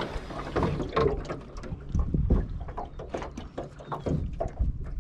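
Irregular knocks, clatter and rustling from handling in a small metal jon boat as a small bass is swung aboard on the line, over a low rumble of wind on the microphone.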